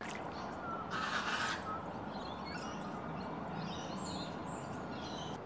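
Birds chirping and calling in short, quickly rising and falling notes, thickest in the second half, over a steady faint background hiss; a brief noisy burst about a second in.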